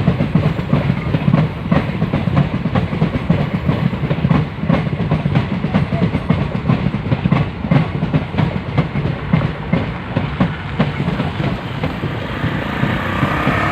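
Passenger coaches of an arriving train rolling past, wheels clacking over the rail joints above a steady low rumble. A faint high squeal, typical of brakes on a train slowing into a station, comes in near the end.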